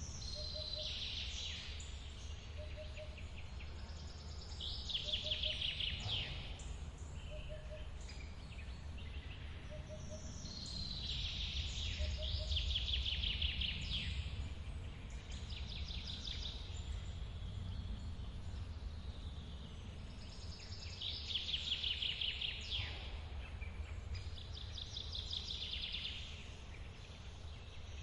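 Steady rumble of a forest waterfall and running water, with a songbird singing a fast trilled phrase that slides downward, repeated about every five seconds. A faint short low note repeats regularly in the first half.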